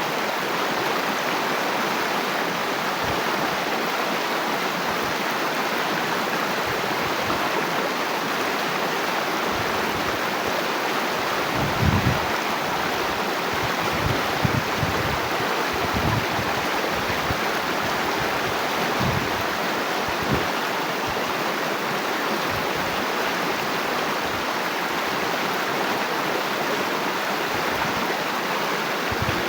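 Water flowing steadily through a small rice-field stream or irrigation channel, an even rushing. A few brief low bumps come and go near the middle.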